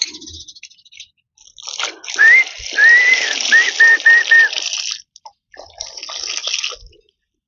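A run of clear whistled notes: a rising note, a longer arched note, then four short quick notes in a row, over a steady hiss like water spraying. A second stretch of hiss follows near the end.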